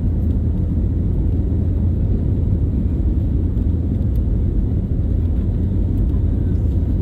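Airbus A321 passenger-cabin noise: a steady, loud, low rumble of engines and airflow with no change in pitch.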